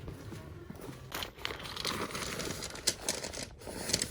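Irregular rustling and crinkling with a few sharp clicks, as of something being handled.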